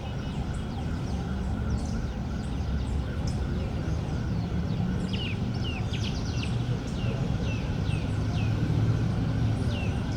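Small birds chirping, with many short falling calls that come thicker from about halfway through, over a steady low rumble of park background noise.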